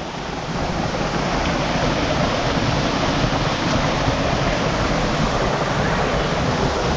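Steady rushing of falling water, a hot-spring cascade, loud and unbroken.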